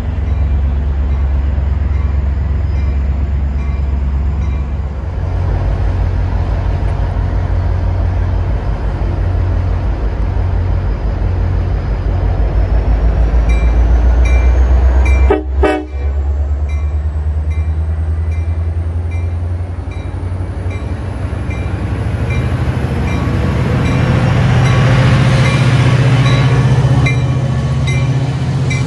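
A diesel-hauled passenger train running through the station, its engine a loud steady low rumble, with a bell ringing in evenly spaced strokes over it. The rumble cuts out briefly about halfway through, and the noise of the passing train builds toward the end.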